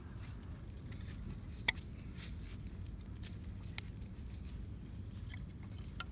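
Wood fire crackling in a stainless fire grill: scattered sharp pops and clicks, the loudest about a second and a half in, over a low steady rumble.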